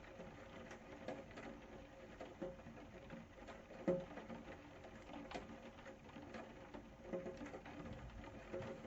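Light rain falling, with scattered drops tapping irregularly and one louder drip about four seconds in.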